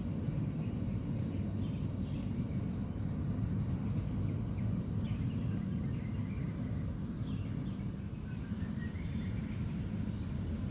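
Nature ambience: insects droning at two steady high pitches and scattered bird calls, with a rising run of chirps about eight seconds in, over a steady low rumble.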